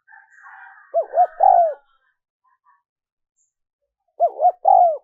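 Spotted dove cooing: two phrases about three seconds apart, each two short coos followed by a longer falling coo. This is the song played as a lure call to draw in wild doves. A faint scratchy noise comes just before the first phrase.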